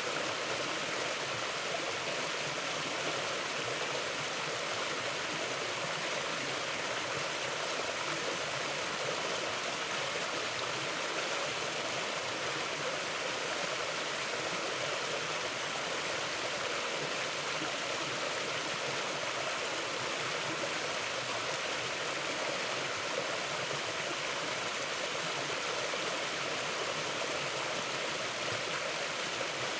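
Stream water flowing over rocks in a steady, even rush.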